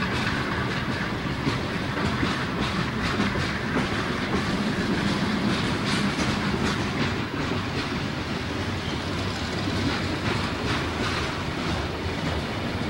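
Freight train of covered hopper cars rolling past close by: a steady rumble of the cars with frequent irregular clicks from the wheels on the rails.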